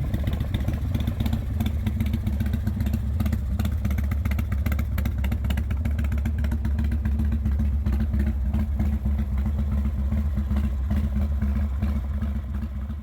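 Big Dog Mastiff's S&S 107 cubic inch V-twin motorcycle engine running steadily with a deep, even exhaust pulse, fading out near the end.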